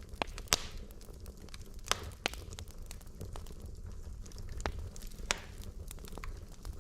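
Burning wood logs in a fireplace crackling, with sharp pops every second or so over a low, steady rumble of the flames; the loudest pops come about half a second and two seconds in.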